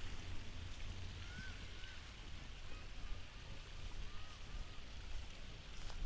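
Two pairs of short, faint bird chirps, each note rising then falling, over a steady low rumble and a soft outdoor hiss.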